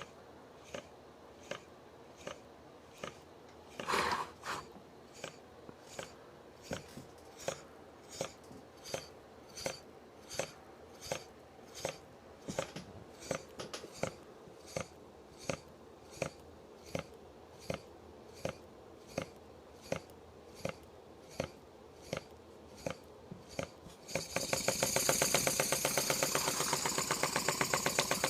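Small Anton Bohaboy twin-cylinder model marine steam engine turning slowly on only 0.20 psi, each stroke a separate light tick at about one and a half a second, gradually quickening, with one louder knock about four seconds in. Near the end the supply pressure is opened up and the engine runs much faster and louder, its beats merging into a rapid continuous chuff.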